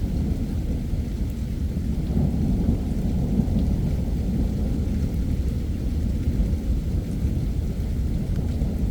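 Thunderstorm: steady rain with a continuous low rolling rumble of thunder, swelling slightly a couple of seconds in.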